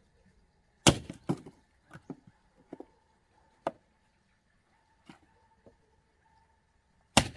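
Axe splitting firewood: two loud, sharp strikes about six seconds apart, with several lighter wooden knocks between them.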